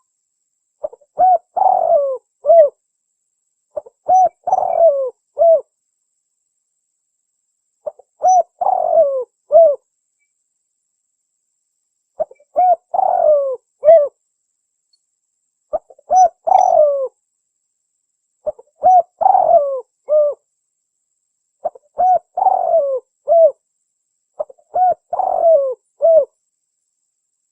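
Spotted dove (tekukur) cooing: phrases of several coos each, repeated about every three seconds with silent gaps between, used as a lure call.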